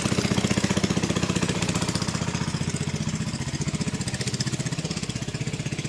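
Mini bike's small engine running steadily with a rapid, even putter, slowly growing quieter.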